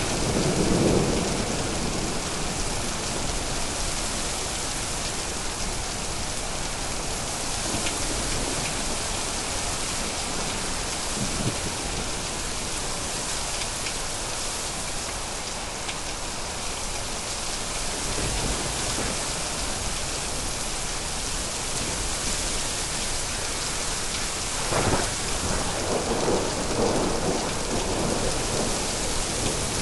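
Thunderstorm: steady rain falling, with rolls of low thunder about a second in and again near the end.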